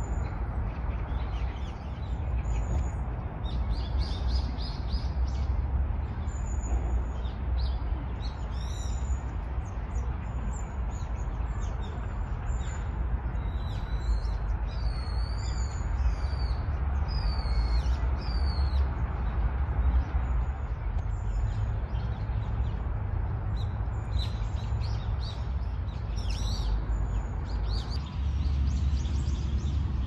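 Small birds chirping and calling repeatedly in the trees over a steady low rumble; the calls are busiest in the middle stretch and again near the end.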